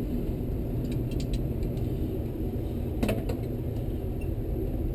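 A steady low rumble with a few faint clicks and one sharper click about three seconds in, from hand tools working on the water heater's parts.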